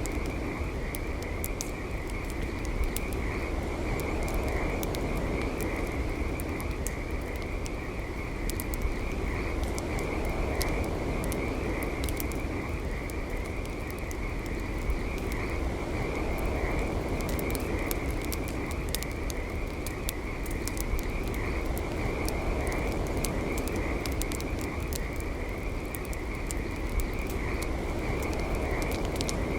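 Campfire crackling, with scattered sharp pops throughout, over a steady low hiss and a continuous high-pitched chorus of calling animals.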